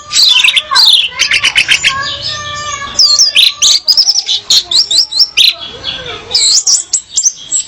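Female orange-headed thrush singing a rapid, varied run of whistled and chattering notes, with quick trills and looping phrases. This is the kind of song used to draw a male into singing.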